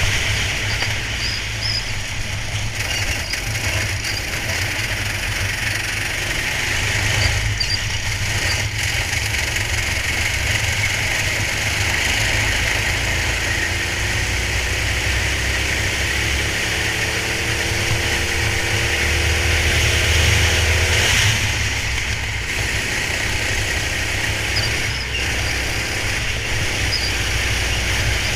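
Go-kart engine running at race speed, heard through the onboard camera's microphone over a steady rushing noise. The engine note climbs slowly for several seconds and drops away about two-thirds of the way through.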